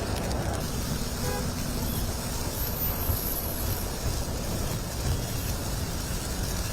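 Steady low rumble of outdoor city street noise, like traffic going by.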